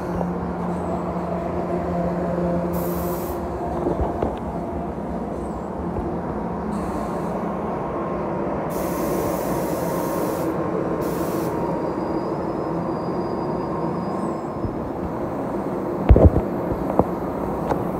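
NJ Transit passenger coaches rolling steadily along the track past the platform, a continuous rumble of wheels on rail with a faint hum, fading a little as the train draws away. A few sharp knocks sound near the end.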